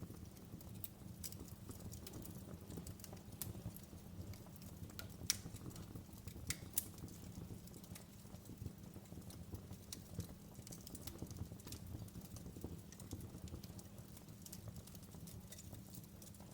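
Wood fire crackling in a fireplace: irregular sharp snaps and pops over a steady low rumble of burning. The loudest pops come a little over five seconds in and again around six and a half seconds in.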